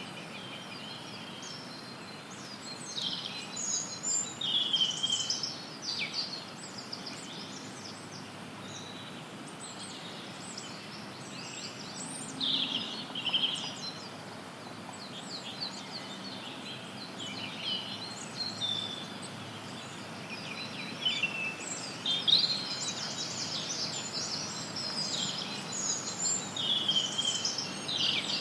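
Small forest birds chirping and calling in scattered clusters of short, high notes over a steady hiss of added white noise.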